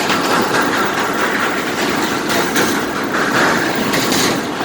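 Steady, loud clattering rumble of a pontoon bridge's steel deck under traffic, a dense run of fine rattles and knocks.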